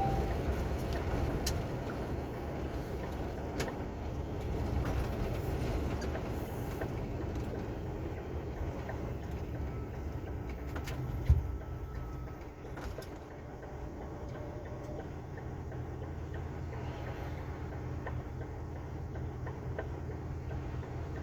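Truck's diesel engine running steadily, heard from inside the cab, with a single sharp knock about halfway through.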